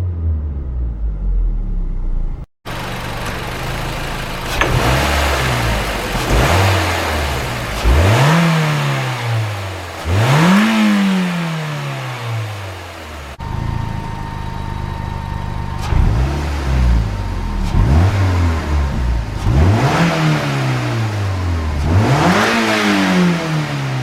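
Mazda Roadster NR-A's four-cylinder engine being revved in repeated throttle blips: each time the pitch jumps up quickly and then falls slowly back toward idle, about nine times, with two brief breaks where the recording cuts.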